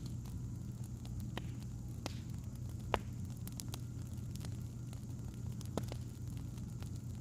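Wood fire crackling: scattered sharp pops and snaps over a steady low hum, the loudest pop about three seconds in.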